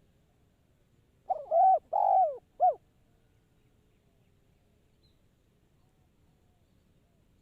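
Spotted dove cooing: a single phrase of four notes, a short one, two longer ones and a short closing one, lasting about a second and a half.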